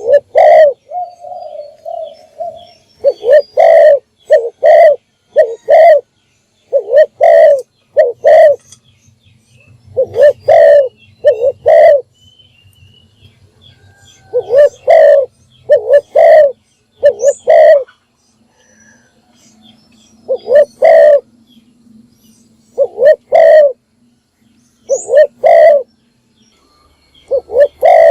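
Spotted dove (a captive decoy bird) cooing loudly and repeatedly, in phrases of two to five deep coos with short pauses between phrases. This is the call used to lure wild doves.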